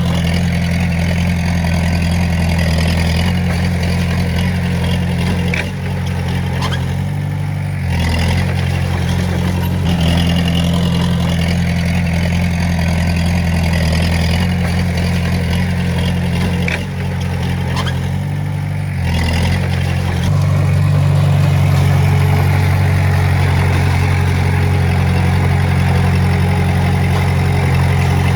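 Diesel engine of a Komatsu D20A bulldozer running steadily. Its note dips briefly twice, about a quarter of the way in and again about two thirds in, and it runs a little louder through the last third. A few faint clicks are heard.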